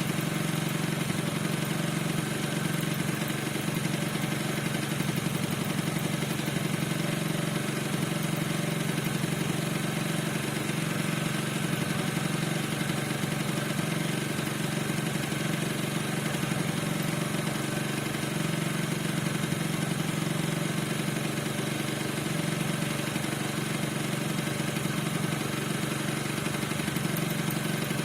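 Piaggio NRG 50 scooter's single-cylinder two-stroke engine idling steadily.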